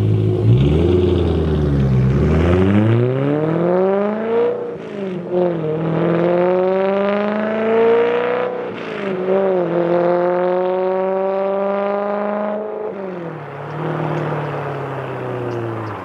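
BMW E92 M3's 4.0-litre V8 through a resonator- and muffler-delete exhaust with the catalytic converters kept, accelerating hard: the engine note dips, then climbs in three long rising pulls, each broken by a brief drop in pitch as it shifts up. Near the end the throttle comes off and the pitch falls away.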